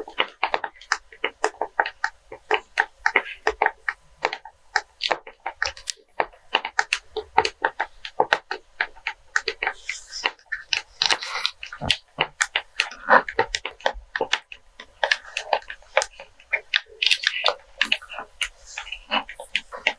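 Rapid, irregular fingernail taps and crinkles from handling a pack of cleaning wipes, several sharp clicks a second with short rustly smears between them.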